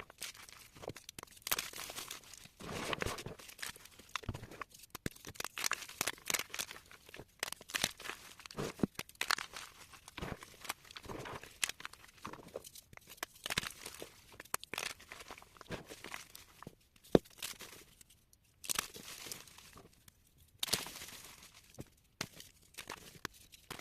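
Soft blocks of chalk crunching and crumbling as they are broken up, in irregular crackly bursts with short pauses between them.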